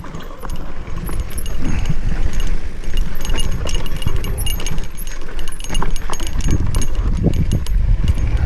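Mountain bike rattling and clicking over rough singletrack, with wind rumbling on the microphone. It gets louder about a second and a half in.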